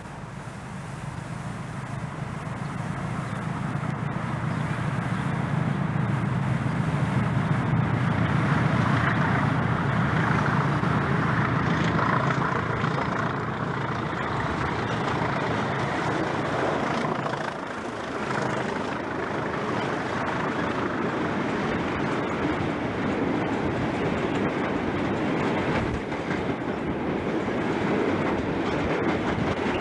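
Diesel locomotive hauling a freight train approaches and passes, its engine growing louder over the first several seconds. The engine sound then fades and the wagons rumble steadily past on the rails.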